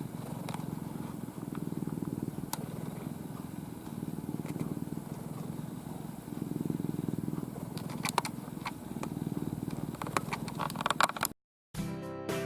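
Domestic cat purring loudly, close to the microphone: a low, fast-pulsing rumble that swells and eases with each breath. Near the end come a run of clicks and rustles, then a brief cut, and music starts.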